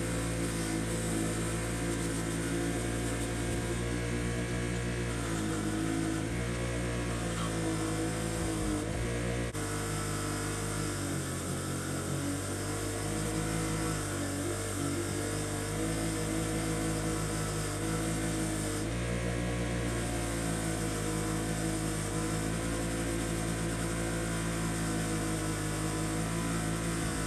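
Electric power tool motor running steadily with a hum, its pitch sagging briefly a few times as the tool is pressed against the work.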